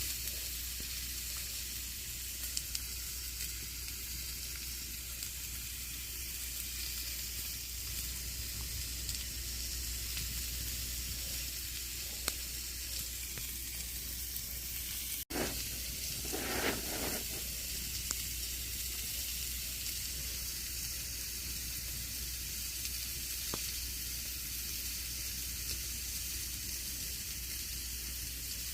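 Campfire burning: a steady hiss with scattered small crackles and pops. About halfway through there is a momentary break in the sound, then a louder rush lasting a couple of seconds before the steady hiss returns.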